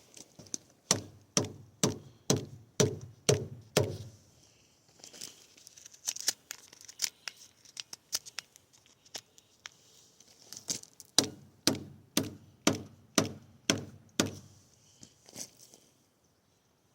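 Out-the-front stiletto knife blade chopping into wood: two runs of sharp thunks about two a second, with lighter, irregular cutting clicks between them.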